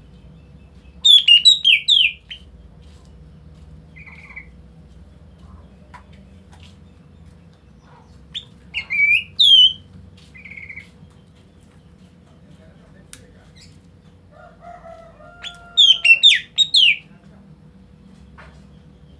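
A bird calling in three loud bouts, each a quick run of sharp notes that slide down in pitch, with a few softer single notes in between.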